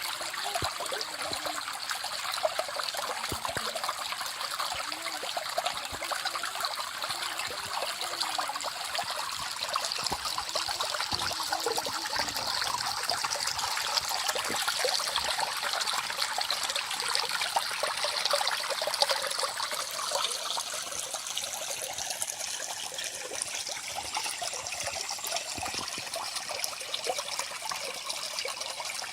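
Small stream flowing steadily with a continuous trickling and bubbling of running water, with a few small gurgling blips in the first half.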